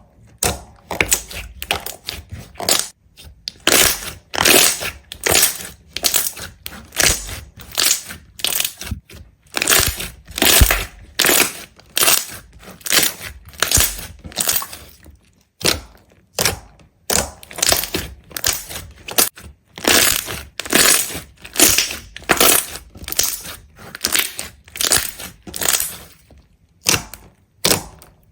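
Repeated crisp crunching strokes, about one to two a second, with brief pauses twice.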